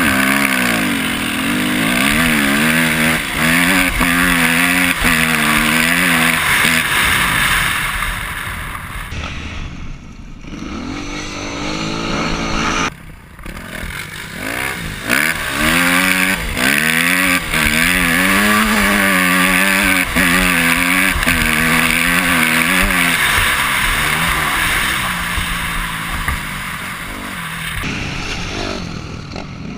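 Engines of a Yamaha YZ250F single-cylinder four-stroke dirt bike and a Kawasaki KFX700 V-twin quad racing, revving up and down again and again as they accelerate and shift. The engine sound breaks off abruptly a few times.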